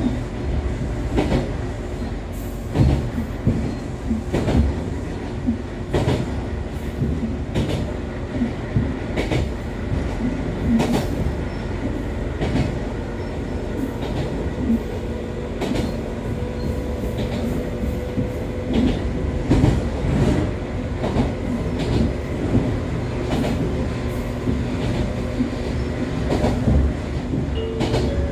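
Echizen Railway MC6101-series electric railcar (MC6106) running at speed, heard from inside: wheels clicking over rail joints over the steady hum of its MT54 DC series-wound traction motors and gearing. The car is one its recorder labels as having an abnormal running noise.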